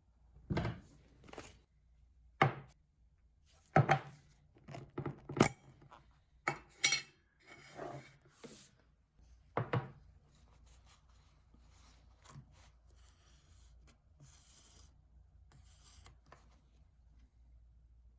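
Irregular knocks, taps and short scrapes of objects being handled and set down, about a dozen in the first ten seconds, followed by a few faint rubbing sounds.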